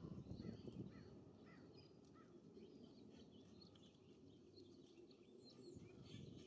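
Faint wind rumble on the microphone with many short, high chirps and calls from small songbirds, some notes sliding downward in the first two seconds.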